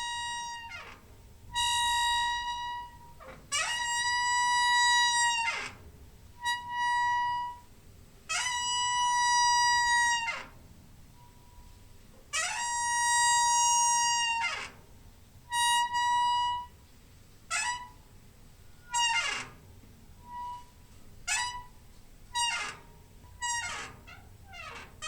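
Door hinge squeaking over and over: long, high squeals that slide up, hold one pitch and slide back down, then shorter, quicker squeaks toward the end.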